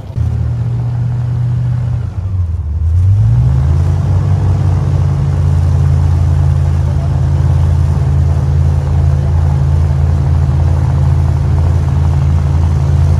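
Airboat engine and propeller running loud. The sound dips briefly about two seconds in, then revs up with a rising pitch and holds steady as the boat gets under way.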